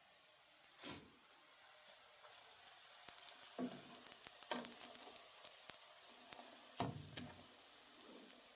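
Food sizzling as it fries in a pan, a steady hiss with fine crackles that grows louder after the first couple of seconds. A few soft knocks sound through it.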